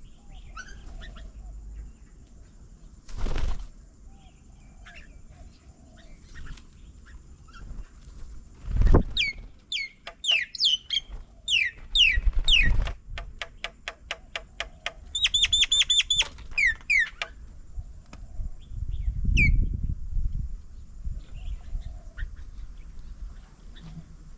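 Birds calling at a garden bird table: quick downward-sweeping whistles and chatter, a fast even run of clicks about halfway through, and a few short low thumps.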